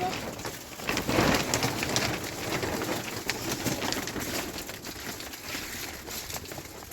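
Steady pattering noise of rain falling on a surface, full of small crackling ticks, growing gradually quieter.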